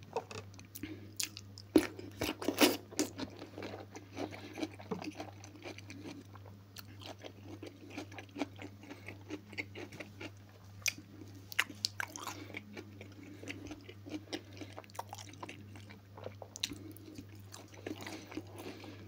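A man chewing and biting a mouthful of food close to the microphone: irregular wet smacks and clicks, loudest about two to three seconds in, over a steady low hum.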